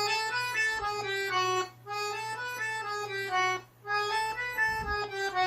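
Accordion playing a single-note melody line in three short phrases with brief breaks between them, the notes stepping up and down. It is a teaching demonstration of a passage from the tune.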